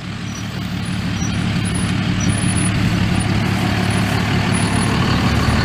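A truck engine running steadily, gradually getting louder.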